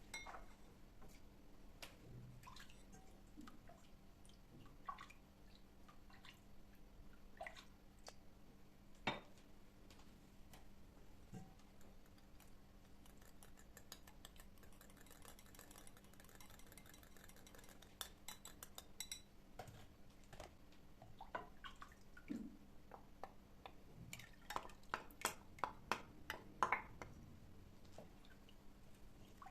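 Scattered light clicks and clinks of household objects being handled, with a quick run of small taps near the end.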